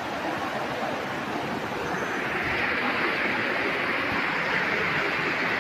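Steady rushing water, a continuous hiss that grows a little stronger about two seconds in.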